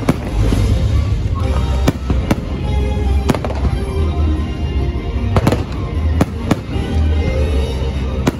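A large fireworks display going off overhead: a continuous low rumble of booms broken by several sharp cracks, over the show's music soundtrack.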